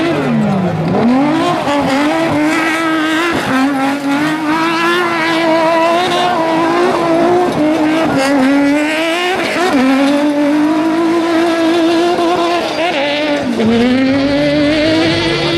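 Car engine revving hard and held at high revs while the car spins doughnuts, with tyres squealing on the tarmac. The revs drop sharply and climb back about a second in, at about three and a half seconds, near ten seconds and again near fourteen seconds.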